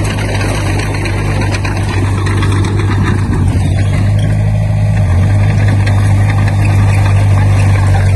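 Heavy diesel engine of earthmoving machinery running steadily with a deep hum, shifting in pitch about five seconds in, over continuous clattering.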